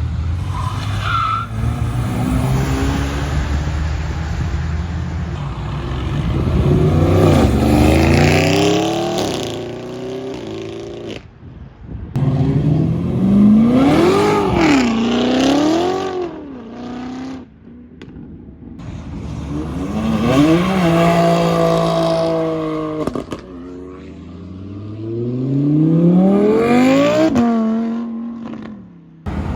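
Performance car engines revving hard and accelerating away, several cars in turn, their pitch climbing through the revs and dropping between gears; one engine is blipped up and down about halfway through.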